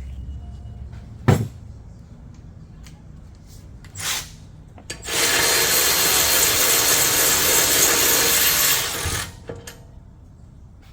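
Power tool on an E16 inverted Torx socket loosening a front brake caliper bracket bolt: a short burst, then about four seconds of steady, loud running. A sharp knock comes about a second in.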